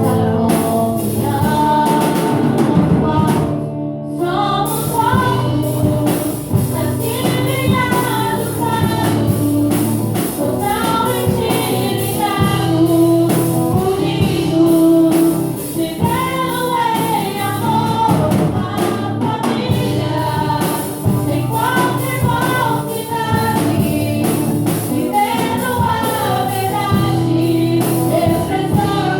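Gospel singing with instrumental accompaniment: sung melody over a sustained low backing, with a brief drop about four seconds in.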